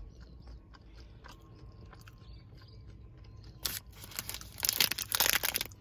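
Close-up chewing of a mouthful of crispy chocolate protein bar. It is quiet at first, then comes a short crunch and about a second and a half of loud, dense crunching near the end.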